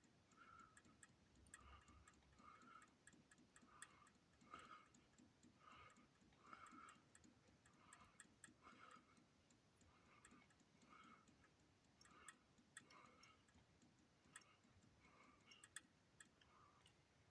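Near silence with a faint, regular ticking about twice a second, and a few sharp light clicks mixed in.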